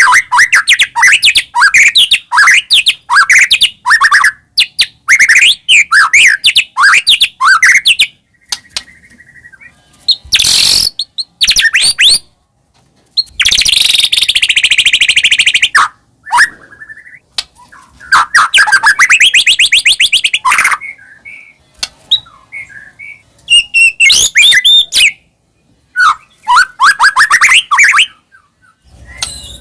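White-rumped shama singing loudly: fast runs of varied whistles, chirps and sweeping notes, broken by short pauses and by a few harsh, rasping rattles in the middle.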